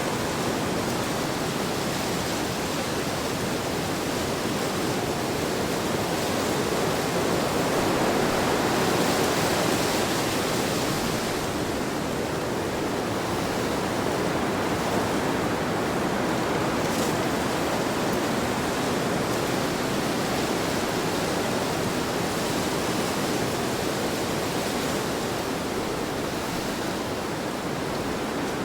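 Heavy wind blowing in a steady rush, swelling a little about a third of the way in and easing slightly near the end.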